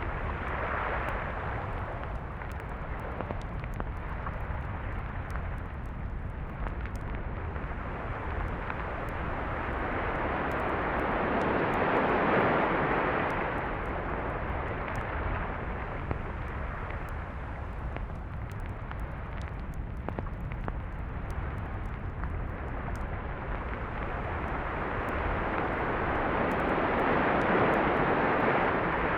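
Sea surf on a beach, the wash of the waves swelling and fading slowly, loudest about twelve seconds in and again near the end, over a steady low rumble.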